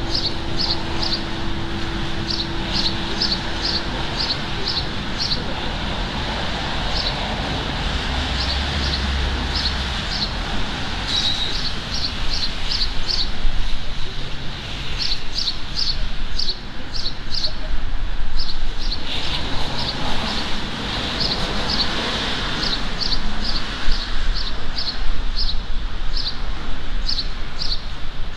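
A small songbird chirping over and over in short, high chirps, several a second in runs with brief pauses, over a steady hum of street traffic. A low bell tone from the carillon dies away in the first few seconds.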